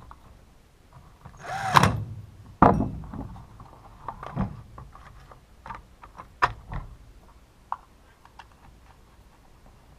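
Plastic and metal chainsaw parts and a tool being handled during reassembly: a brief scrape about a second and a half in, a sharp knock just after, then a few more knocks and light clicks that thin out toward the end.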